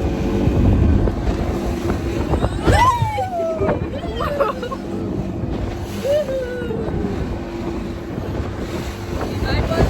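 Small boat's motor running steadily, with wind buffeting the microphone. Two drawn-out falling cries come over it, about three and six seconds in.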